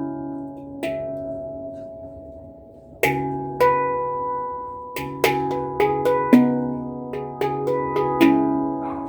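Celestial Sound handpan tuned to C# Celtic Minor, its notes struck by hand and left ringing. A single note sounds about a second in and fades, then from about three seconds in a quicker run of strikes follows, notes overlapping as they ring out.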